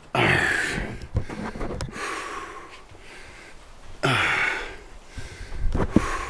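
A man breathing heavily, three long breaths about two seconds apart, with a few short knocks between them.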